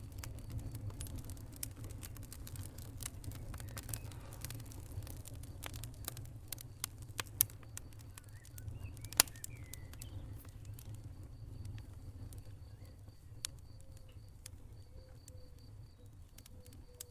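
Wood fire in a fireplace crackling: irregular sharp pops and snaps over a low steady rumble, with a couple of louder pops about seven and nine seconds in.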